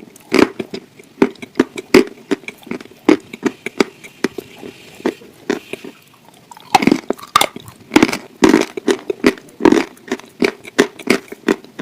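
Close-up chewing and biting of grilled chicken: wet, crunchy mouth sounds in quick irregular clicks, easing off briefly around the middle.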